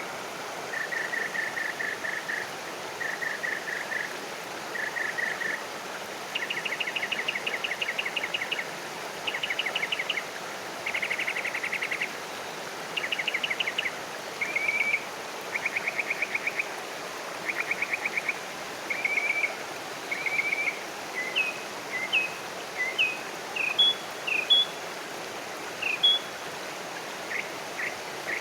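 Birdsong: a series of rapid trilled phrases, each about a second long, that change in pattern from one phrase to the next. In the last third they give way to short separate chirps. A steady background hiss of outdoor noise runs underneath.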